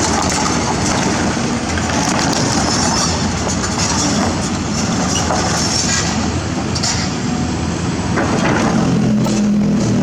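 Excavator diesel engine running steadily at work, with a few sharp knocks and clanks. The engine note grows stronger near the end.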